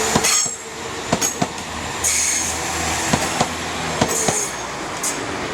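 A passenger train's wheels rolling slowly through the station, clacking over rail joints and pointwork in quick pairs of knocks, with two short high-pitched wheel squeals.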